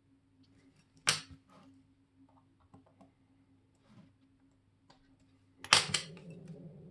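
Small hard clicks and light taps of watchmaking tools and parts on a bench, with one sharp click about a second in and a louder cluster of clicks near the end. A low steady hum starts after that last cluster.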